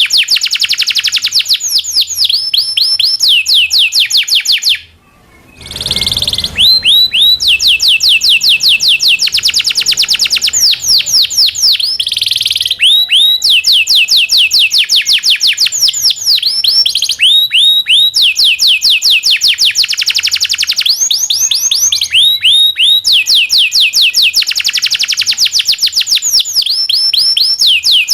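Domestic canary singing long rolling trills: phrase after phrase of rapid, repeated high chirps. The song breaks off briefly about five seconds in, then resumes.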